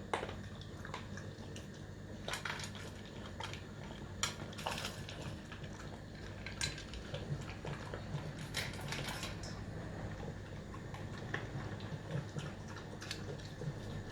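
A dog and a cat eating from their bowls: scattered crunches and light clinks against the bowls, over a low steady hum.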